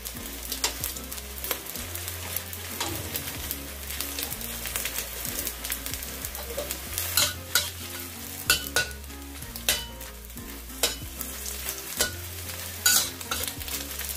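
Sliced fish balls sizzling in hot oil in a wok, with a metal spatula scraping and clicking against the pan about a dozen times at irregular intervals as they are stirred.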